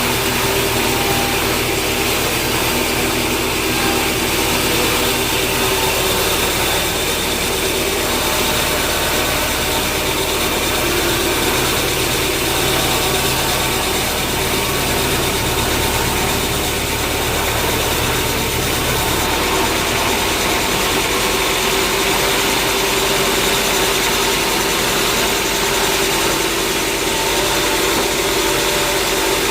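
A machine engine running steadily with a constant hum and hiss, typical of sawmill machinery running. A deep low drone in it drops away about two-thirds of the way through while the rest keeps running.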